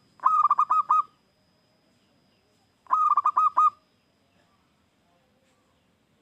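Zebra dove (perkutut) singing its cooing song: two short phrases about two and a half seconds apart, each a quick run of about five notes.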